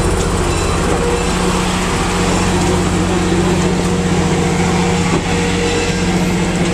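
Passenger cars of a departing steam-hauled excursion train rolling past close by: a loud, steady rumble with a constant low hum.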